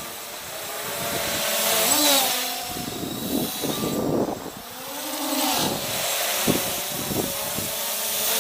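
MJX Bugs 3 quadcopter's brushless motors and propellers whining in flight. The pitch rises and falls, and the sound swells louder several times as the drone throttles up and passes close by.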